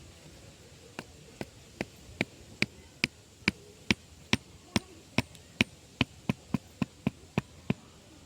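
Repeated sharp chopping strikes on bamboo, about twenty in a row starting about a second in, at two to three a second and quickening slightly toward the end.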